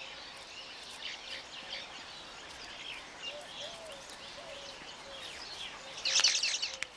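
Weaverbirds at a nesting colony chirping and chattering: many short, high chirps and a few small arched calls over a steady outdoor hiss, with a louder, harsher burst of chatter about six seconds in.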